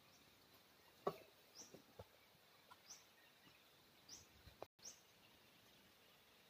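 Near silence with a bird's faint short, high, falling chirps, about four of them, roughly a second apart, and a soft knock about a second in.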